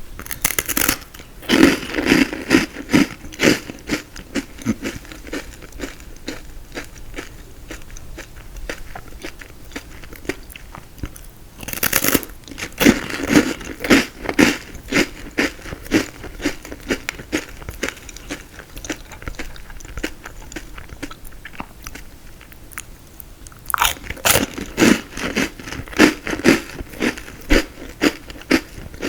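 Close-miked biting and chewing of frozen tiramisu: three bouts of crackly crunching, roughly ten seconds apart, with quieter chewing in between.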